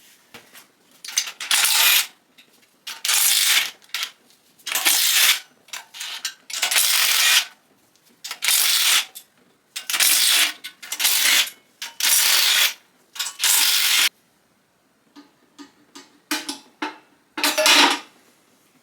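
Ratchet wrench worked in repeated strokes, each a short run of clicks, about one stroke a second. The strokes stop about fourteen seconds in; a few lighter clicks and one last stroke follow near the end.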